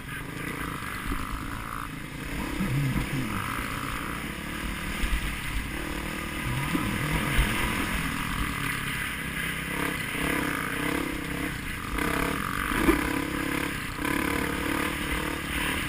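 Off-road motorcycle engine running and revving, its pitch rising and falling, with a few sharp knocks.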